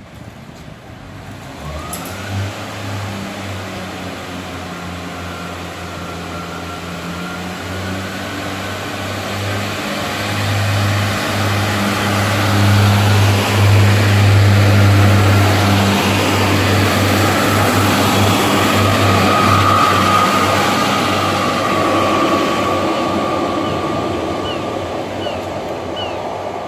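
Diesel passenger trains running through a station: a steady low engine drone with a faint hum above it that builds to its loudest about halfway through. A high squeal follows in the second half.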